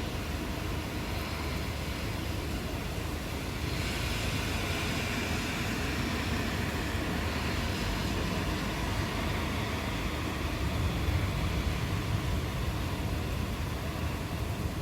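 Steady rain hissing over a low rumble of distant thunder. The rain's hiss grows louder about four seconds in, and the rumble swells around ten to twelve seconds in.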